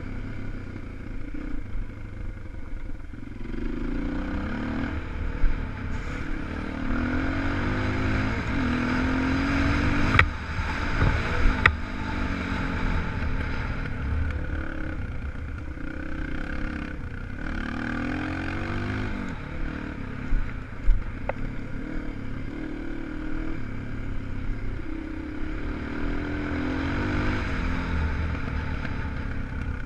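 A 250 cc single-cylinder four-stroke enduro motorcycle riding off-road, its engine revving up and easing off again and again as it accelerates and backs off. A couple of sharp knocks, like the bike's frame or suspension being jolted, sound near the middle.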